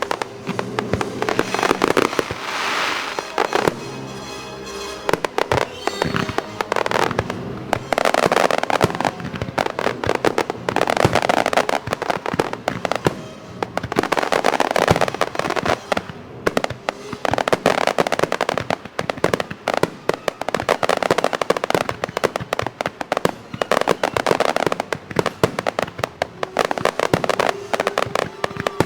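Fireworks bursting and crackling in quick succession, many reports overlapping, with music playing along.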